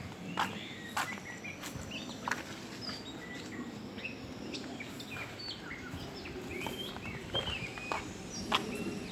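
Small birds chirping in short, scattered calls over a steady outdoor background noise, with a few sharp taps in the first two seconds and again near the end.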